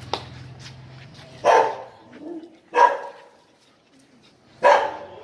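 Small dog barking three times, sharp single barks spaced a second or two apart.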